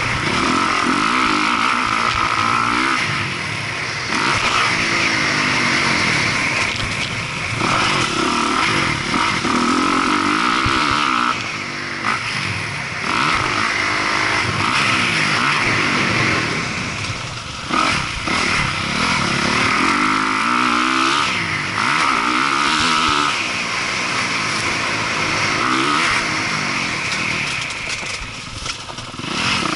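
Motocross dirt bike engine revving hard and easing off again and again as it is ridden around the track, its pitch climbing and dropping every second or two.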